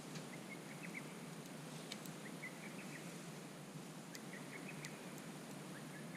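Wood campfire crackling with a few sharp pops over a soft steady hiss, while a bird repeats a short phrase of quick high chirps about every two seconds.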